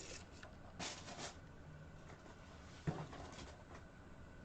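Faint handling sounds: a soft rustle about a second in and a light click near three seconds.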